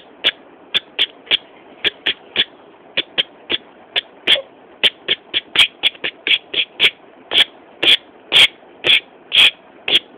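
A run of sharp ticking clicks over a faint hiss, unevenly spaced at first, then settling into a steadier, louder beat of about two ticks a second.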